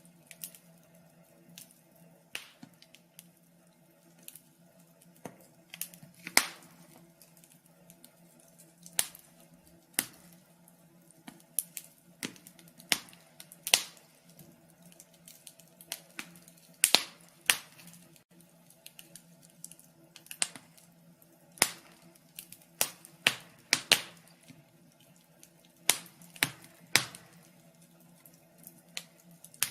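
Wood fire in a fireplace crackling, with irregular sharp pops and snaps, a few of them much louder, over a faint steady low hum.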